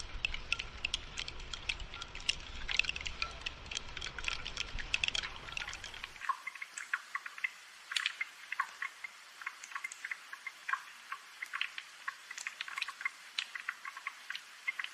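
Rain dripping and pattering: dense, irregular small drop ticks. A low rumble underneath cuts off suddenly about six seconds in.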